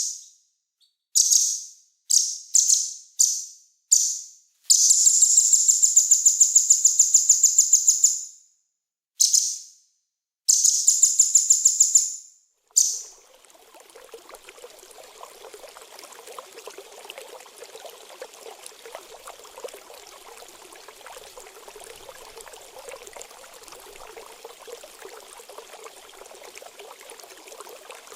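Small songbird calling: a few short, very high-pitched chirps, then two long rapid trills, stopping about thirteen seconds in. Steady running water, like a trickling stream, follows for the rest, the water-sound break of a birdsong training track.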